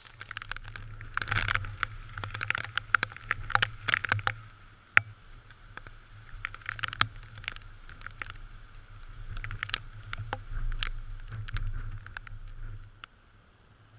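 Typhoon wind and rain on a GoPro in its housing: a gusting low rumble with many irregular sharp taps, stopping suddenly near the end.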